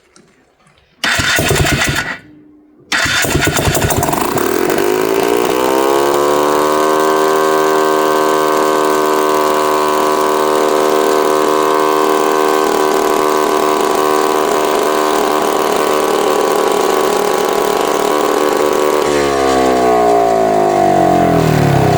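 Two-stroke four-wheeler engine firing briefly, then catching about three seconds in and revving up to a high, steady rev held for about twelve seconds before winding down near the end. It is running away at high rpm on excess starting fluid, with its kill-switch wiring disconnected so it cannot be shut off, on a freshly replaced piston and rings.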